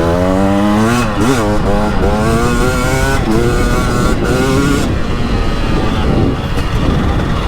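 2021 KTM 300 XC-W Erzberg's 300 cc fuel-injected (TPI) two-stroke engine being ridden. The engine note climbs under throttle, dips sharply about a second in, then rises and falls several times. Near the end it eases off into a rougher, less steady sound.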